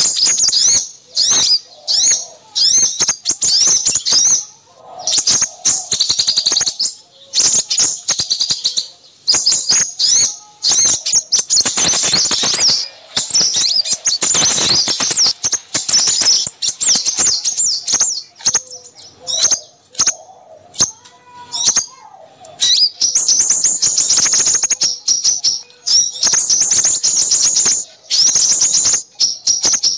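Busy chorus of small songbirds giving rapid, high chirps and twittering trills, with only brief pauses. This is a bird-lure (pikat) recording of mixed small-bird calls used to attract crimson sunbirds.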